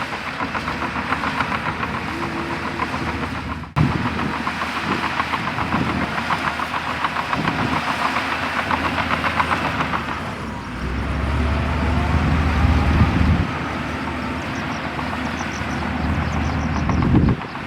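Crawler bulldozer working: its steel tracks clatter in a fast, even rhythm over its diesel engine. About eleven seconds in, the engine rumbles much louder for a couple of seconds, as under load while pushing soil, then drops back.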